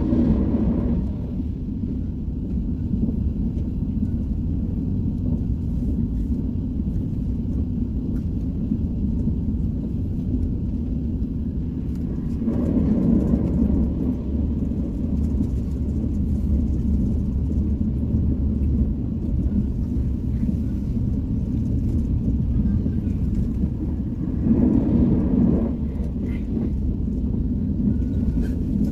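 KTX high-speed train running at speed, heard inside the passenger carriage: a steady low rumble of the train on the track. It swells louder for a second or two about twelve seconds in and again a few seconds before the end.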